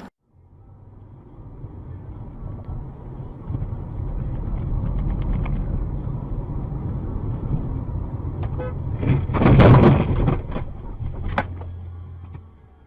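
Car driving, heard from a dashcam: a steady low road and engine rumble that builds over the first few seconds, then a loud burst of noise about nine seconds in, followed by a few sharp clicks.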